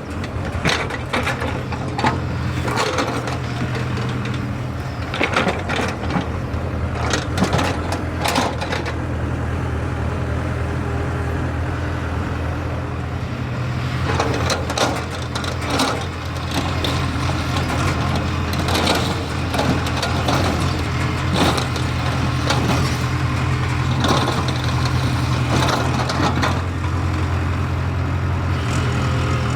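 JCB excavator's diesel engine running steadily, with irregular metallic clanks and knocks over the engine throughout.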